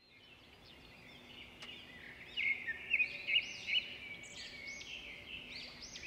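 Birds chirping, many short overlapping calls at once, fading in at the start, with a louder run of chirps about two to four seconds in.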